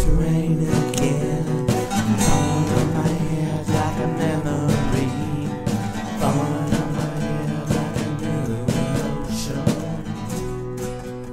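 Acoustic guitar playing the closing instrumental bars of a song, picked notes ending about ten seconds in on a held chord that rings out and fades.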